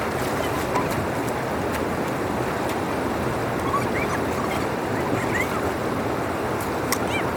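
Water rushing steadily through a drain outlet, with a few short high chirps heard above the flow.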